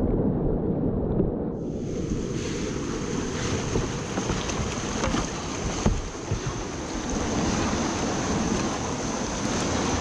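Whitewater rushing, with a low rumble of water and wind buffeting the microphone; a brighter hiss of the rapids swells in about a second and a half in.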